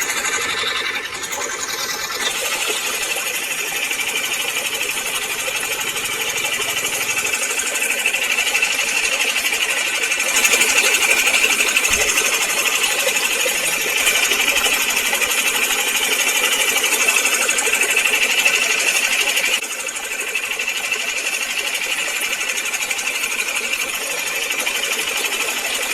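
Small high-speed motor running steadily with a fast, fine rattle and a high-pitched buzz; it gets a little louder about ten seconds in and drops back about twenty seconds in.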